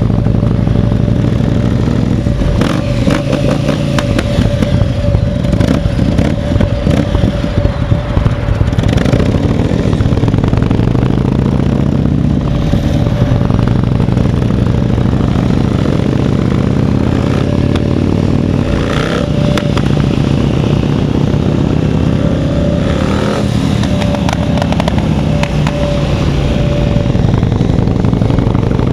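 S&S Pan 93 (1,530cc) air-cooled V-twin of a Headbanger Woodstock Boogie bobber, running continuously. Its note is rougher and clattery for the first several seconds, then steadier.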